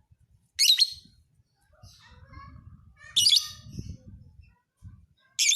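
Lovebird giving short, loud, shrill bursts of chirping three times, about two and a half seconds apart, with quieter twitters between them.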